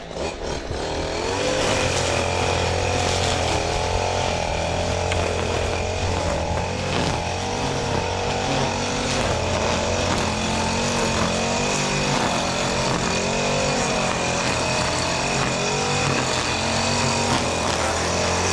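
Stihl FS 94 R two-stroke gas string trimmer revving up about a second in, then running at cutting speed on wet grass, its engine pitch wavering up and down as it works.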